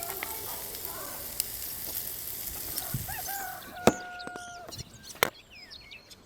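Food sizzling on the heat as a steady hiss that stops after about three and a half seconds. Then two sharp knocks, with chickens and small birds calling.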